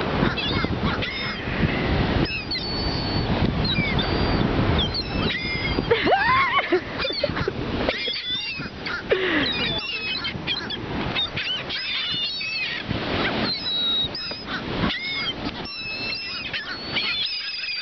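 A flock of seagulls squawking and crying over one another, many short calls overlapping, over a rushing noise that is heaviest in the first half.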